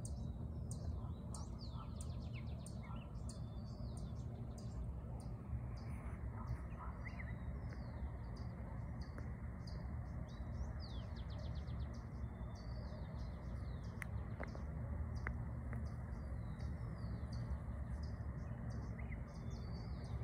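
Small birds chirping and twittering in high, short notes, with several quick trills of rapidly repeated notes, over a low steady background rumble.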